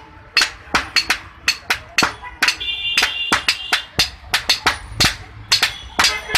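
Hammer blows on hot iron at an anvil, about three to four strikes a second, with a brief metallic ring after some of them.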